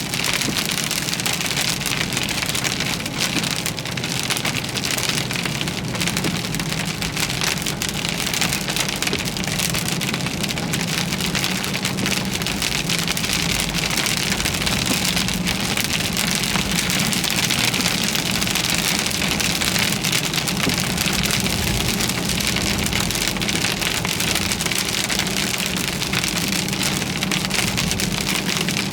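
Heavy, steady thunderstorm rain falling on a car, with a low steady hum from the moving vehicle underneath.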